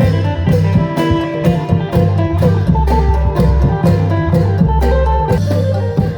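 Isan phin lute playing a lively plucked melody over sustained bass notes and a steady drum beat of about two hits a second.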